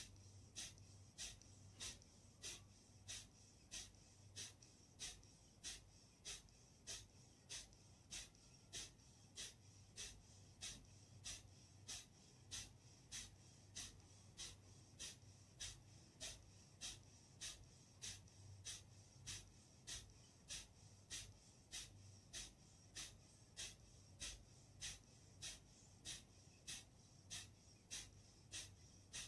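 Kapalbhati breathing: short, forceful exhalations through the nose, each pushed out by a sharp pull of the belly, repeating evenly at about three every two seconds.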